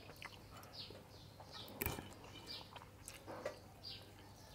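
A small bird chirping over and over, short high notes that fall in pitch, about two a second. A single sharp click comes about two seconds in.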